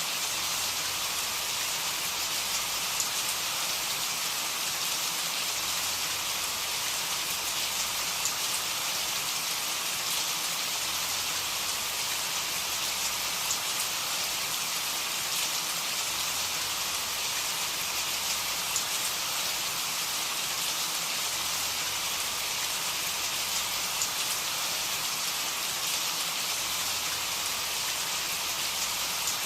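Steady rain falling on a surface, an even hiss of many drops with faint individual drop ticks and no change in intensity.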